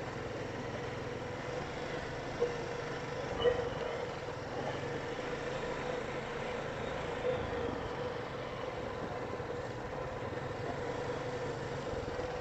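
Four-wheeler (ATV) engine running at a steady, low hum, with a couple of faint knocks a few seconds in.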